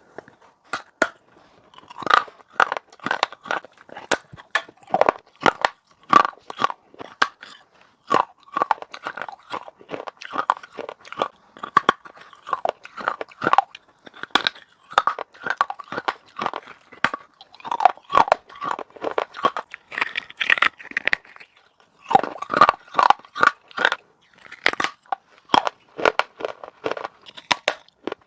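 A person biting and chewing pieces of baked clay pot: a dense run of sharp, gritty crunches in clusters, with short pauses between bites.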